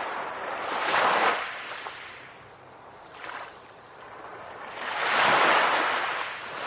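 Ocean waves washing in and drawing back, one surge about a second in, a small one near the middle and the largest near the end, with quieter lulls between.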